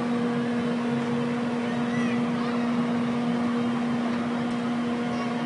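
Steady hum of carnival ride machinery: one constant drone with no change in pitch, over a busy wash of background noise.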